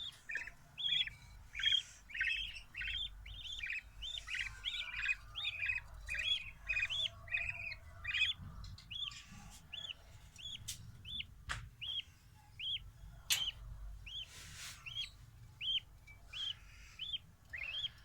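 Budgerigar chicks chirping. For the first half several calls overlap; then one chick repeats a single short arched chirp steadily, about one and a half times a second. A few sharp clicks fall in the middle.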